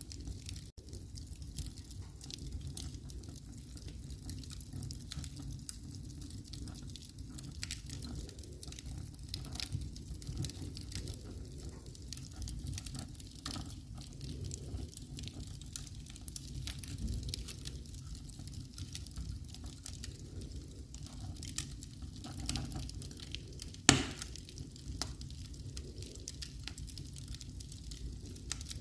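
Wood fire burning in a fireplace: a steady low rumble with scattered sharp crackles all through, and one loud pop late on.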